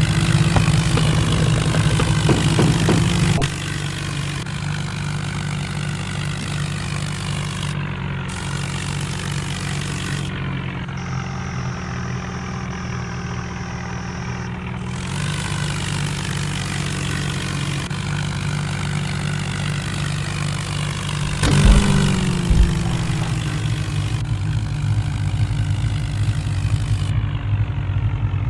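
JCB backhoe loader's diesel engine running steadily, louder for the first few seconds. A couple of sharp knocks come about twenty-two seconds in, and the engine note sags briefly after them.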